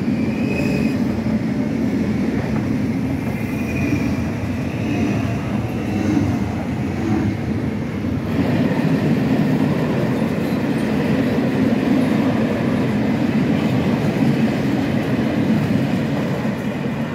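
A Renfe electric commuter train running past close by, then a long works train of yellow hopper wagons rolling past on the next track: a steady noise of steel wheels on rail. The sound changes about halfway through, as the commuter train clears and the wagons pass.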